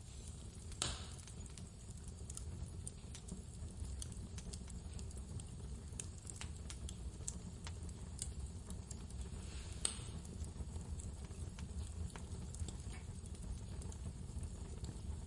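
Wood fire crackling in a fireplace: scattered small snaps and clicks, with two louder pops, one about a second in and one near ten seconds, over a steady low rumble of blizzard wind.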